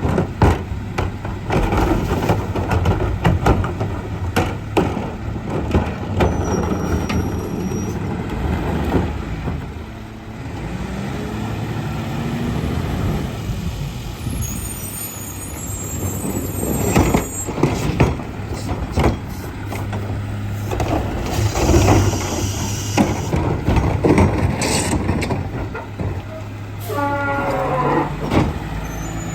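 Garbage truck running, its diesel engine revving up twice, with repeated bangs and clatter of carts and trash and a hiss of air from the brakes about halfway through.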